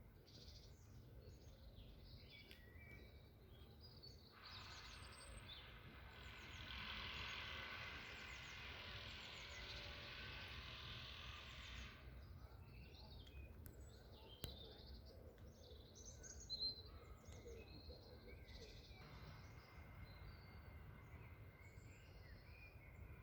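Faint birdsong: several small birds chirping and twittering on and off. A soft, steady hiss comes in about five seconds in, drops out about halfway through, and returns near the end.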